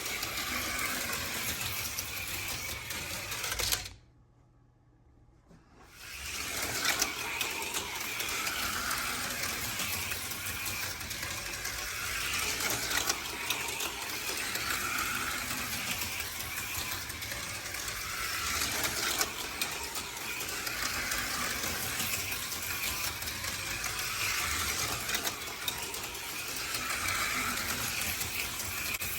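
HO scale slot cars, an AFX Mega G stock car and a Tyco Cliffhanger, running laps on plastic track: small electric motors whirring and chassis clattering, swelling every few seconds as the cars pass. The sound drops to near silence about four seconds in, then picks up again about two seconds later.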